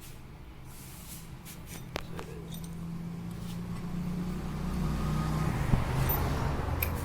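An engine running steadily at low speed, growing louder over several seconds, with a click about two seconds in and a sharp knock near the end.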